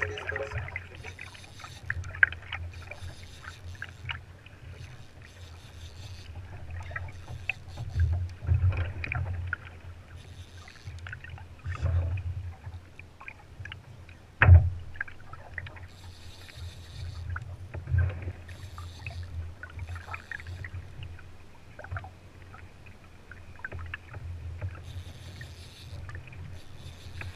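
Water sloshing against a fishing kayak's hull under a steady low rumble, with short splashy hisses every second or two and one sharp knock on the hull about halfway through.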